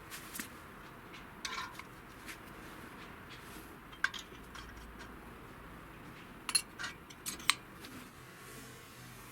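Small hard metal parts clinking and tapping together as they are handled: scattered clicks, with a run of sharper ones between about six and seven and a half seconds in.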